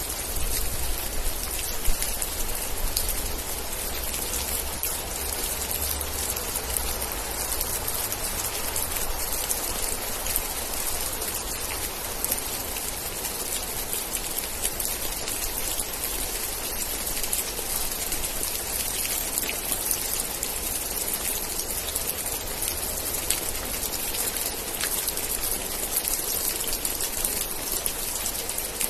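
Steady heavy rain: a dense, even hiss of falling drops with single drops standing out, over a low rumble that is stronger for the first ten seconds or so.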